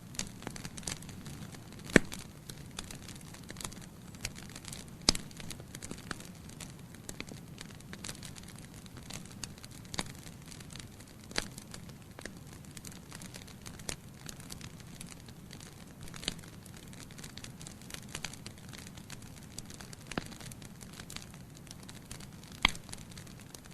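Wood fire burning in a fireplace: a steady low hiss with irregular crackles and sharp pops from the burning logs, the loudest pops about two, five, eleven, sixteen and twenty-two seconds in.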